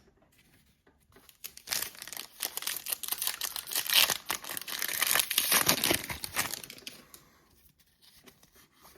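Crinkling and tearing of a foil trading card pack wrapper, a dense crackling rustle lasting about five seconds, starting about a second and a half in.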